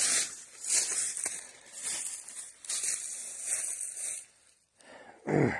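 Footsteps crunching through dry fallen leaves and brush, about one step a second, with stems and briars rustling against clothing. They stop about four seconds in, and a short grunt-like voice sound comes near the end.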